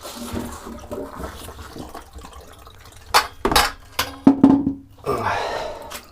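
Water running and splashing in a shower as a vintage sewing machine is rinsed. Several sharp knocks and clatters come in the middle.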